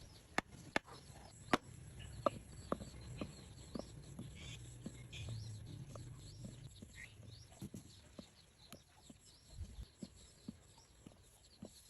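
Irregular sharp clicks and taps, the loudest bunched in the first couple of seconds, over a low rumble.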